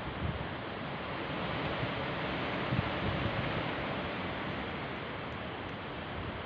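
Strong wind blowing steadily, with gusts buffeting the microphone in low rumbles.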